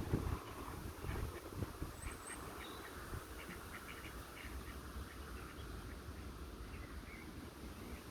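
Ducks quacking in many short calls, over wind rumbling on the microphone that is strongest in the first second.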